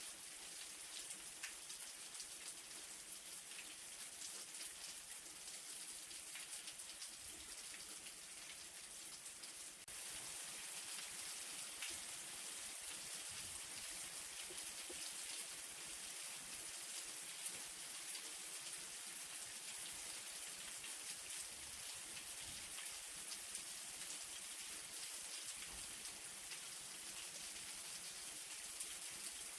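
Steady light rain falling, a soft hiss flecked with many small drop ticks; it grows slightly louder about ten seconds in and then holds even.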